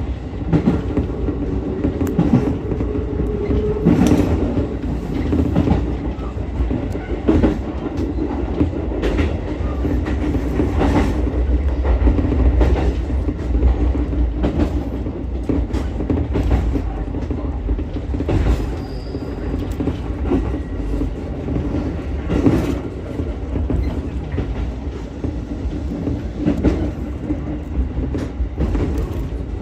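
Ichibata Electric Railway 7000-series electric railcar running along the line: a steady low rumble of wheels on rails, broken by irregular clicks and knocks over rail joints, with a steady low hum from the running gear.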